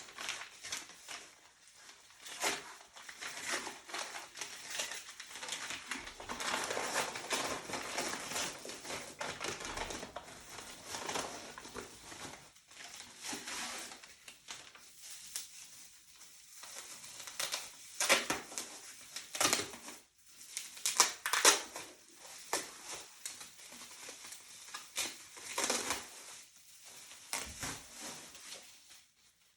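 A parcel being unwrapped by hand: packaging crinkling and crumpling, with tearing and scattered sharp crackles, a few of them louder about two thirds of the way through.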